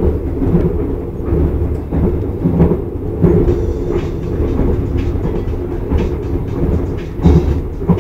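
Rumble of an airport rail-link train running along the track, heard from inside the carriage, with irregular knocks and rattles over a steady low roar.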